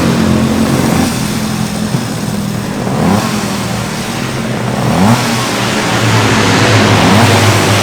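Two-stroke racing motorcycle engine running at idle, its throttle blipped a few times so the pitch briefly rises and falls back.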